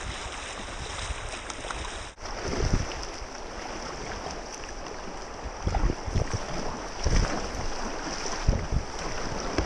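Rushing river water around a kayak, with wind buffeting the microphone in a few low thumps.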